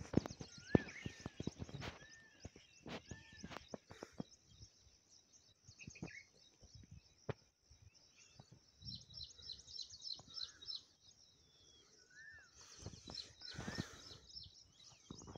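Birds calling in open farmland: short arched whistled notes repeated every second or so, with bursts of quick high chirps in the second half. Scattered clicks and rustles.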